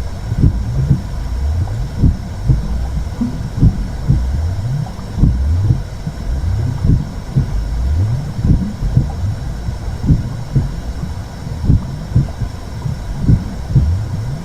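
Recorded or simulated womb sound for soothing a baby: a low, muffled whooshing rumble with rhythmic heartbeat-like thumps that come in pairs about every second and a half.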